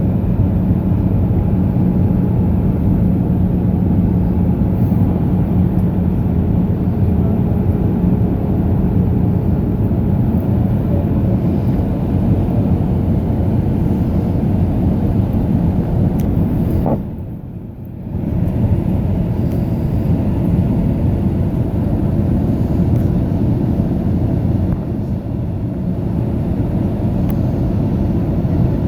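Steady drone of an Airbus A319 heard from inside the cabin in flight: engine and airflow noise with a low hum. The sound drops away suddenly for about a second past the middle, then comes back.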